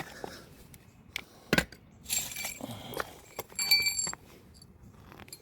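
A sharp knock, then two short bursts of metallic jingling with a bright ringing, about two seconds in and again near four seconds.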